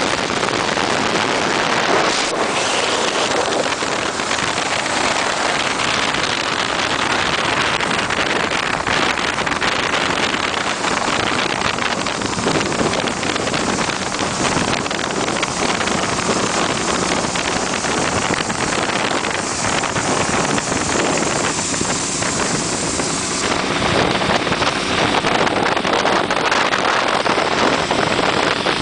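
Motorcycles on the road at speed: a steady engine drone through open exhausts, largely buried under heavy wind noise on the microphone.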